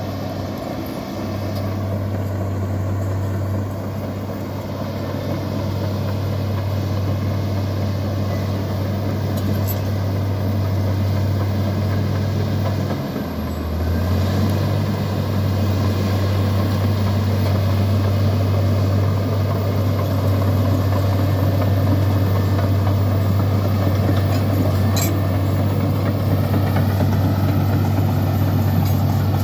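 Heavy diesel engine of a Komatsu bulldozer running steadily, its low tone dipping and shifting briefly about thirteen seconds in before settling again.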